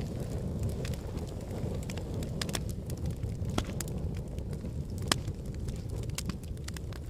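Wood logs burning in a fireplace: a steady low rumble of the flames with scattered sharp crackles and pops, a few of them louder.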